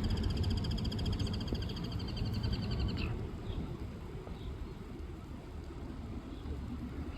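Steady low outdoor rumble. A rapid high-pitched animal trill stops abruptly about three seconds in, and a few short chirps follow.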